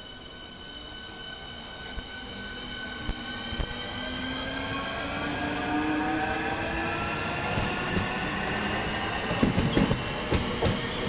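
Electric multiple unit accelerating: its traction motors whine in a stack of tones that rise steadily in pitch as it gets louder. Wheels start clattering over the rail joints near the end.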